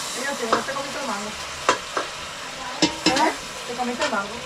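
Food sizzling in a pot over a wood fire, with a steady hiss and several sharp clicks about halfway through.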